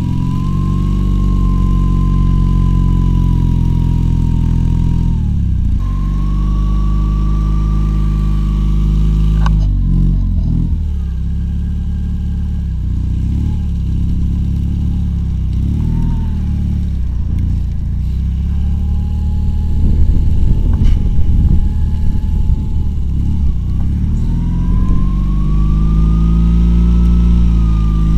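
Homemade quad bike's two-cylinder Lada Oka engine running under load, its revs rising, holding and falling again and again, with quick uneven surges in the middle and a climb in revs near the end.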